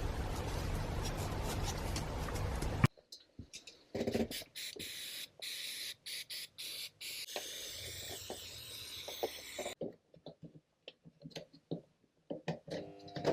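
Small clicks and knocks of hand work on a dismantled starter motor, with a few seconds of hiss in the middle. A steady background noise cuts off abruptly about three seconds in.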